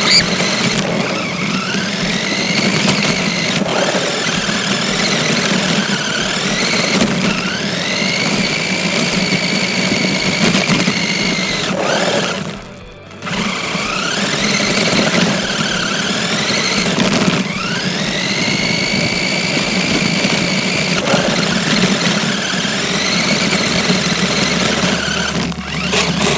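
RC car's electric drive motor whining, spinning up in a rising whine that levels off, again and again every three to four seconds. It cuts out briefly about halfway through.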